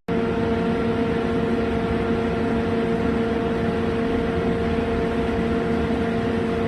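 Horizontal floor-type CNC boring mill running: a steady mechanical hum with a constant whine, unchanging throughout.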